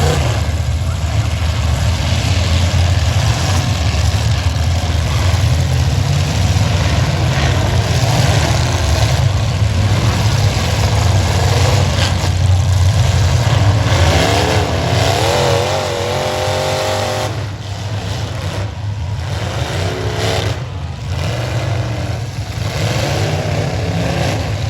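Demolition derby cars' engines running and revving loudly together, a heavy low rumble, easing somewhat after about two-thirds of the way through.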